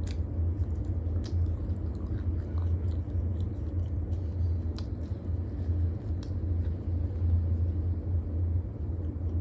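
Close-miked chewing of a steamed momo with the mouth closed: soft wet mouth clicks now and then, over a steady low hum.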